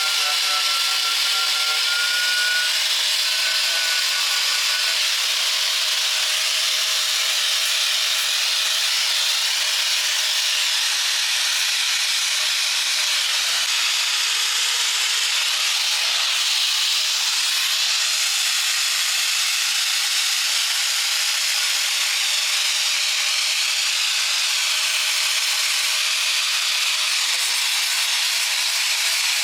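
A power tool working steadily with a continuous, high, hissing, abrasive noise, with a faint motor whine in the first few seconds.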